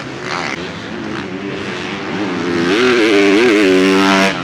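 Motocross bike engine revving on the track, its pitch rising and falling with the throttle. It grows much louder over the last couple of seconds as the bike comes close, then cuts off suddenly near the end.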